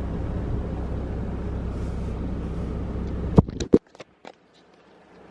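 Steady low rumble of a Ford Raptor pickup truck running, then a few sharp clicks or knocks about three and a half seconds in, after which the rumble cuts off and it goes nearly quiet.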